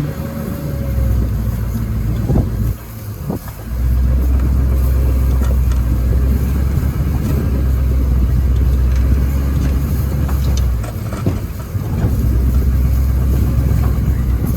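Vehicle engine running with a steady low rumble that drops briefly about three seconds in and again near eleven seconds.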